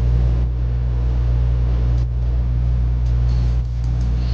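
Steady low rumble and hiss of road noise inside a moving car.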